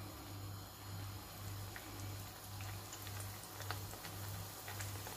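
Yeasted pişi dough frying in hot oil in a pan: a faint sizzle with scattered small crackles and pops that grow more frequent after a second or so, over a low steady hum.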